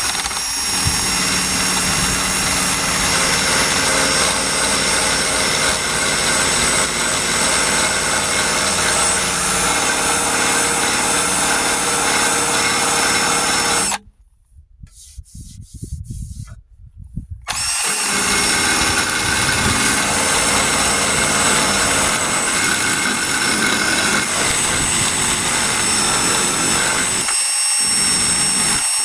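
Power burnishing tool running steadily as it strips paint off truck body sheet metal. It stops about halfway through for roughly three and a half seconds, then starts up again.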